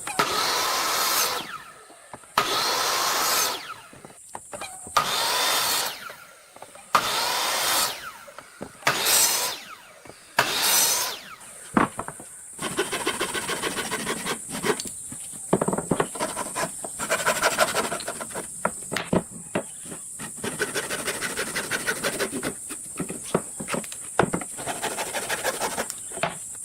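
Wood being cut with a woodworking tool: six separate strokes of about a second each, then a long run of fast, rhythmic rasping strokes.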